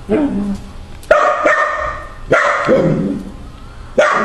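A dog barking: about five sharp barks at uneven intervals.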